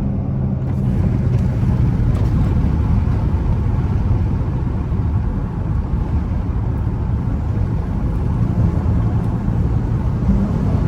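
V6 Dodge Charger driving at high speed: a steady engine drone under heavy rushing air and road noise.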